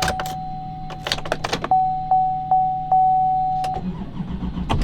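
2018 GMC Sierra 3500HD being jump-started: a steady electronic warning chime tone, broken by regular ticks, sounds while a quick run of clicks comes about a second in. Near the end the engine cranks and catches, and the chime drops out briefly as it starts.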